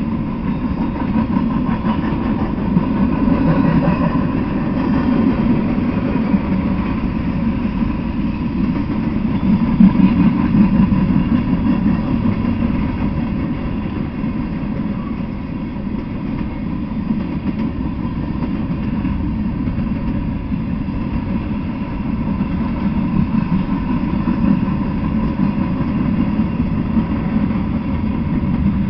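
Freight train cars (covered hoppers, tank cars, a gondola) rolling past, a continuous rumble of steel wheels on the rails that swells a little, loudest about ten seconds in.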